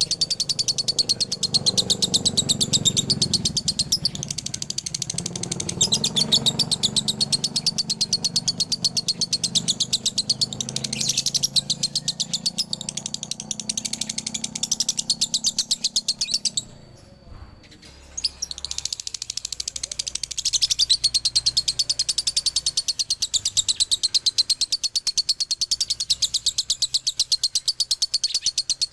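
Male lovebird's long, rapid chattering song (the 'ngekek'), a fast unbroken run of high chirps. It stops for about a second and a half past the middle, then starts again.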